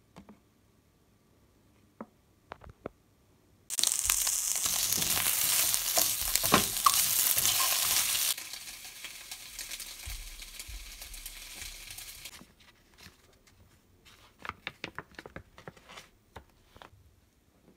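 Imitation crab sticks and filling strips sizzling as they fry in a pan, stirred with a wooden spatula. The sizzle starts suddenly about four seconds in, drops to a softer hiss about four seconds later and fades out. A few light taps come before it and a run of quick soft crackles near the end.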